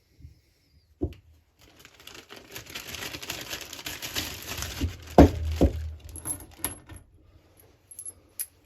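A plastic parts bag rustling and crinkling as it is handled, with a few knocks on the bench. Near the end come small metal bolts clinking.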